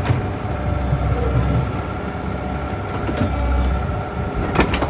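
Backhoe engine running steadily, with two sharp knocks close together near the end.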